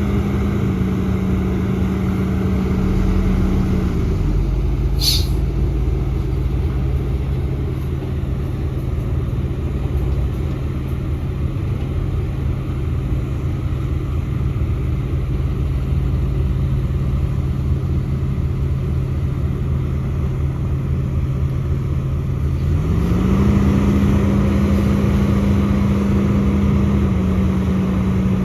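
Heavy diesel engine of earthmoving machinery running steadily. Its speed drops about four seconds in and climbs back up near the end. A brief high hiss comes about five seconds in.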